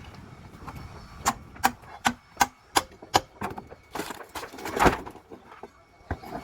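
A hammer striking wood about six times in a steady rhythm, roughly two and a half blows a second, followed about five seconds in by a longer, rougher noise.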